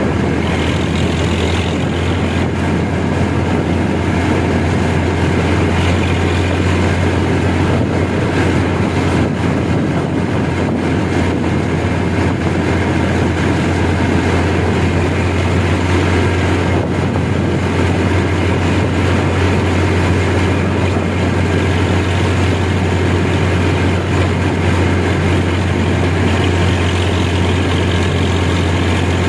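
Tractor engine running at a steady speed, a constant deep hum that does not change.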